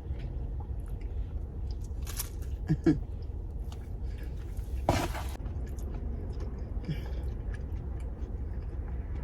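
A person chewing and crunching a hard, overcooked thin-crust melt, with a sharper crunch about five seconds in, over a steady low hum.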